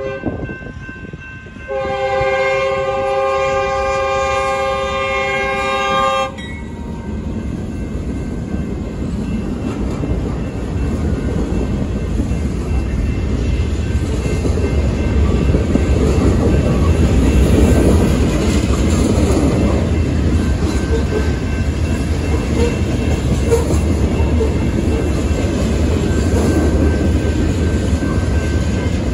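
Freight locomotive horn sounding one long chord of about four seconds as the train nears a grade crossing, then the freight train rolling past: wheel-on-rail rumble with clickety-clack from the cars, growing louder as the cars go by. A crossing bell rings faintly and steadily underneath.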